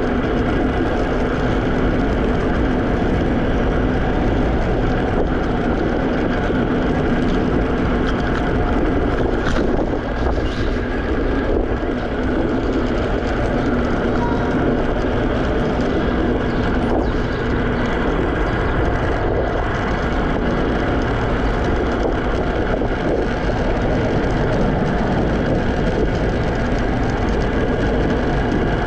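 Steady wind and road noise from riding a Segway Ninebot electric kick scooter, with a low hum throughout and a brief dip in level about ten seconds in.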